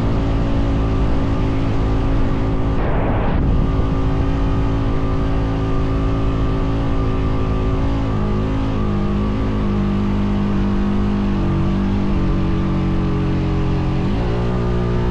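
ATV engine running steadily under load while towing another ATV across sand. Its pitch wavers up and down in the second half, and there is a brief rushing sweep about three seconds in.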